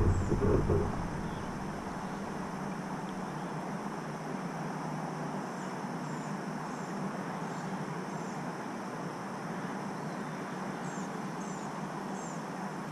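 Steady open-air background hiss with faint, short, high bird chirps in a few small groups, around the middle and again near the end. A louder low rumble in the first second fades away.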